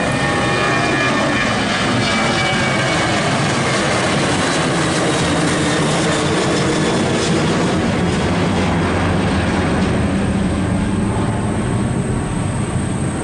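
An airliner's engines running loud and steady, with a high whine over the noise in the first half that fades. Near the end the sound grows duller and a little quieter.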